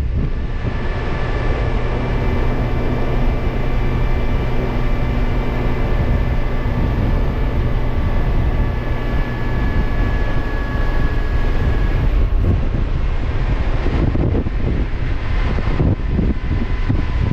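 Motorcycle cruising at a steady speed: an even drone of engine and wind, with a few steady whining tones over it.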